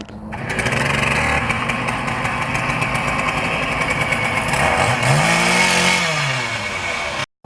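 Small engine running steadily, its pitch rising and then falling once about five seconds in; the sound cuts off suddenly near the end.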